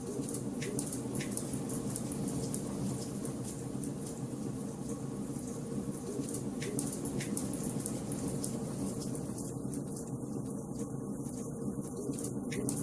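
Wood burning in a fireplace: a steady hiss and low rumble of the flames, with a few sharp crackling pops of the logs scattered through.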